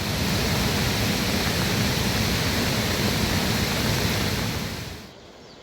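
Steady rushing noise of falling water, fading in at the start and fading out about five seconds in.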